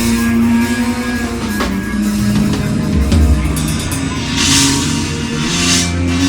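Live heavy metal band playing: guitars and bass holding low chords over a drum kit, with two cymbal washes in the second half.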